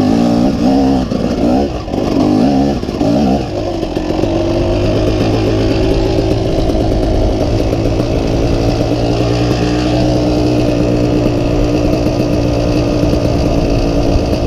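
Dirt bike engine revving in quick blips of the throttle, then settling about four seconds in to a steady, unchanging note.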